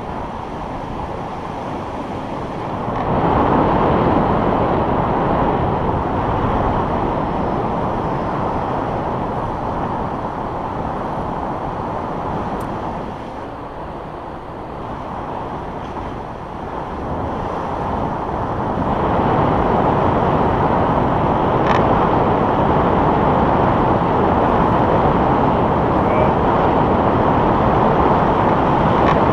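Wind rushing over the microphone of a paraglider in flight, a steady rumbling rush that grows louder about three seconds in, eases for a few seconds in the middle and swells again for the rest.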